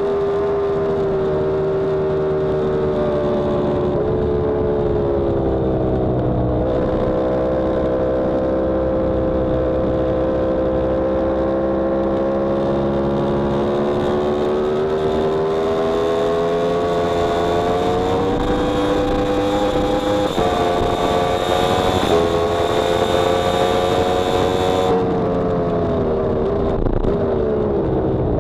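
Yamaha R1M's inline-four engine heard from on the bike at track speed, its note sagging and climbing as it is ridden through the laps, with a few sudden steps in pitch about two-thirds of the way through. Wind rush on the microphone over most of the stretch, dropping away near the end.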